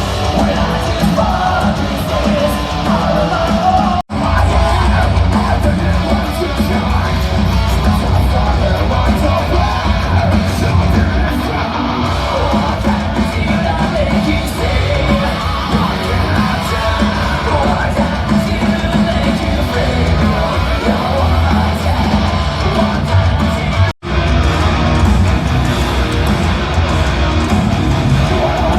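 Live heavy metal band playing loud: electric guitars, drums and yelled vocals. The sound cuts out briefly twice, about four seconds in and again about twenty seconds later.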